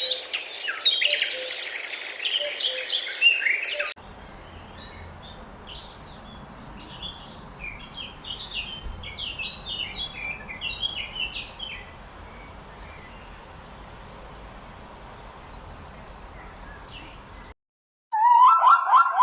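Small birds chirping and singing, loud and dense at first, then after a sudden change fainter chirps over a low rumbling noise. Near the end the sound cuts out briefly and a loud, rapidly repeating pitched call starts.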